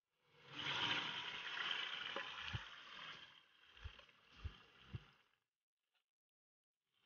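Marinated chicken hitting hot oil in a pot and sizzling. The sizzle is strongest for the first few seconds, then dies away, with a few dull thuds in the second half.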